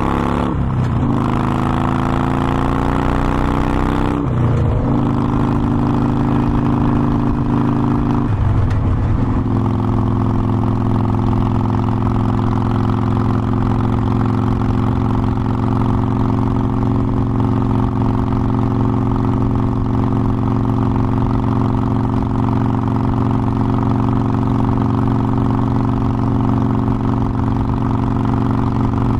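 Harley-Davidson Forty-Eight Sportster's air-cooled V-twin pulling through the gears under way, with three upshifts in the first nine seconds, where the engine note drops and climbs again. It then holds a steady cruise.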